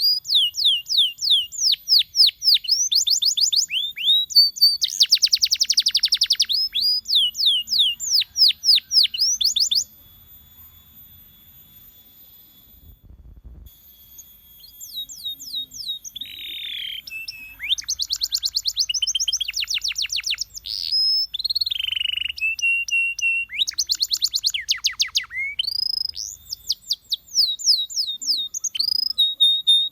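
Domestic canary singing: fast trills of repeated down-sweeping notes alternating with other varied phrases. The song breaks off for about four seconds in the middle, then resumes.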